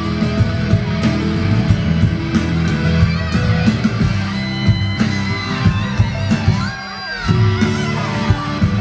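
Instrumental passage of a live pop-rock band: electric guitar with bends over bass and drums, with a brief break about seven seconds in.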